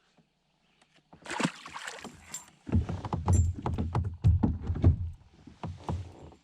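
Knocks, bumps and rubbing against a fishing kayak as a fish is handled aboard, after a brief hissy splash about a second in.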